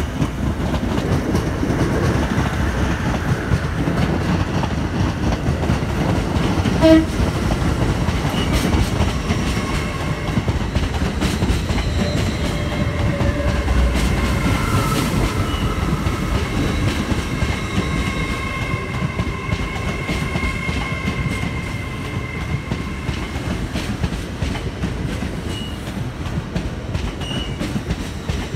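Passenger trains running past close by on the station tracks: a steady rumble of wheels on rail with clicks over the joints. There is a brief loud tone about seven seconds in, and thin whining tones through the middle.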